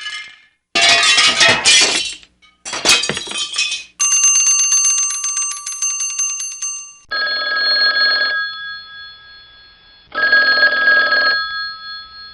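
A string of separate sound effects. Loud noisy bursts fill the first four seconds. Then a bell rings rapidly for about three seconds, followed by two shorter bell rings about three seconds apart.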